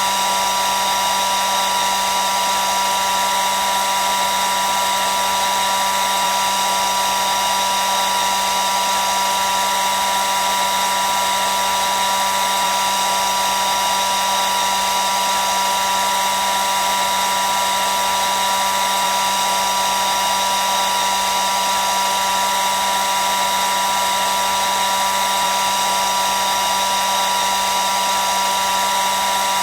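Hair dryer running steadily: a constant rush of air with a steady whine held on one pitch.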